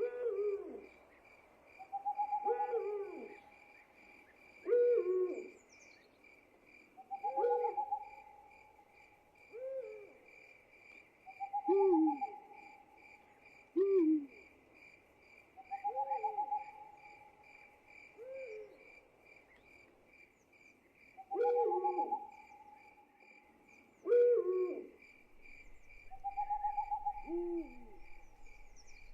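Night ambience: hooting calls, typical of owls, repeating about every two seconds. The calls alternate between short low falling notes and longer, slightly higher held notes, over a steady, rapidly pulsing chirp of crickets or other insects.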